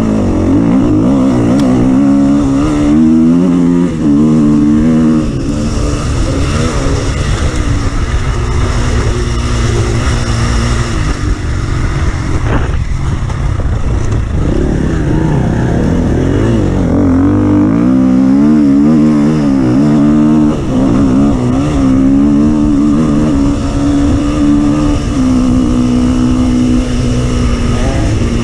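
An offroad vehicle's engine running under changing load, its pitch rising and falling again and again as the throttle is worked, with a brief knock about halfway through.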